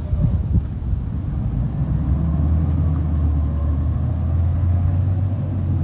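Garbage truck engine running with a low, steady drone that grows stronger about two seconds in.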